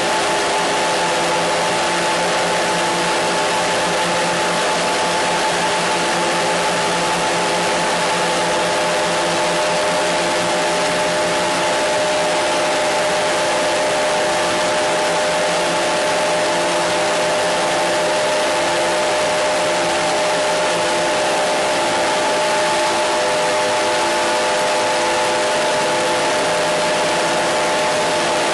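Steady static-like hiss with several steady humming tones beneath it, unchanging throughout.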